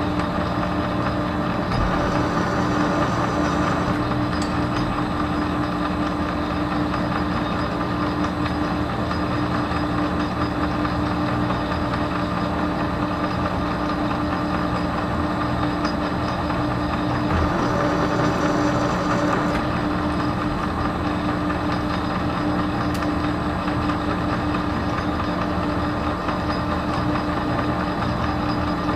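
Metal lathe running steadily, its motor and drive giving a constant hum with a steady whine over it, while a shaft is turned to a fit. A short stretch of added high hiss comes about two seconds in and again about seventeen seconds in.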